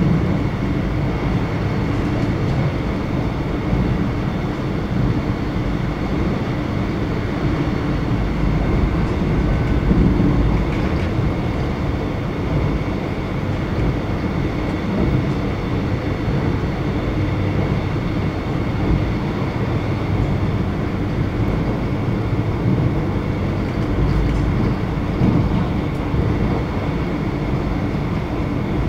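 Alstom X'Trapolis electric train running at speed, heard from inside the front carriage: a steady rumble of wheels on the rails with a faint constant whine above it.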